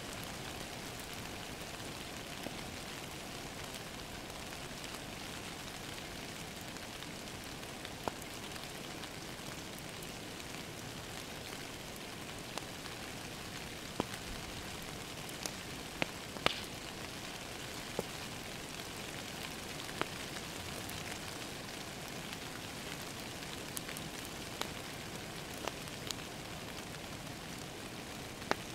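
Steady rain falling against a window, heard as an even hiss, with a wood fire crackling: sharp single pops every few seconds, the loudest about halfway through.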